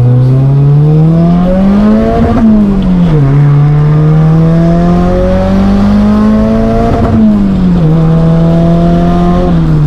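Turbocharged SR20 four-cylinder engine of a Nissan S14 accelerating hard through the gears. The revs climb, fall sharply with an upshift about two seconds in, climb more slowly, and fall again with a second upshift about seven seconds in, then hold fairly steady.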